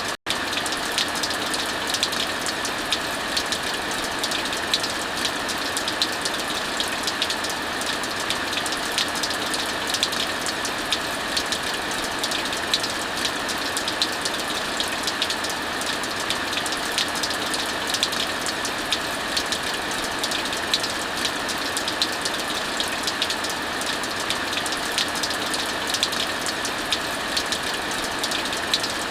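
Steady heavy rainfall mixed with the frequent small crackles and pops of a wood fire, with a split-second dropout right at the start.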